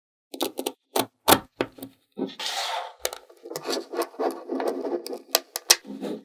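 Small magnetic balls snapping together in a run of sharp clicks, then a dense rattling, rubbing noise as a mass of the balls is pushed and rolled, with more sharp clicks near the end.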